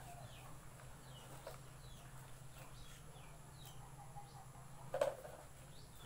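Faint bird chirps in the background, short falling notes repeated every half second or so, over a low steady hum. A single sharp knock about five seconds in is the loudest sound.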